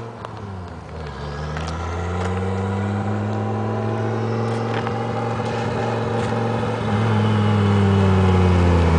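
Turbocharged 20-valve engine of a 1990 Audi 80 quattro running as the car drives toward the listener, growing louder as it nears. The engine note dips briefly about a second in, then holds steady and climbs a little near the end, where it is loudest.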